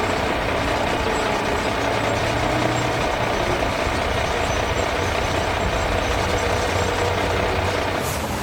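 Heavy diesel construction vehicle engine running steadily at a low rumble, with a short burst of hiss near the end.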